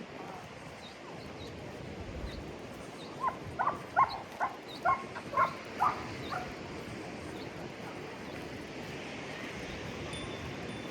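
A dog barking: a quick run of about eight sharp barks over roughly three seconds, starting a few seconds in.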